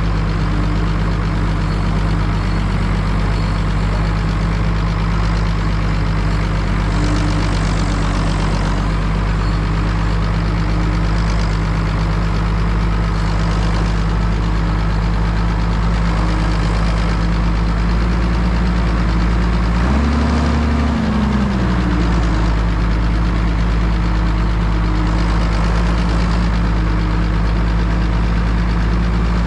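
Straight-piped six-cylinder turbo diesel of a 1988 Zetor 16145 tractor running at a steady engine speed. Its note rises briefly about two-thirds of the way through, then settles back.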